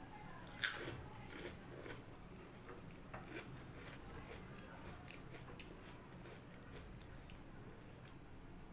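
A crisp, crunchy bite of fried food close to the microphone about half a second in, followed by several smaller crunches of chewing over the next few seconds, then quieter eating.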